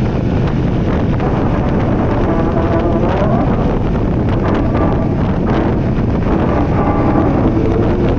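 KTM motorcycle running at riding speed, its engine under heavy wind noise on the microphone. The engine's pitch rises briefly about three seconds in and again around five seconds.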